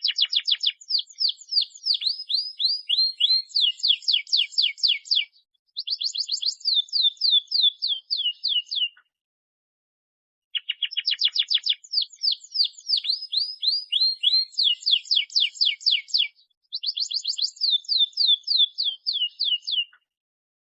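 Domestic canary singing in two long bouts of fast, high trills, each made of rapid down-slurred notes, with a break about nine seconds in.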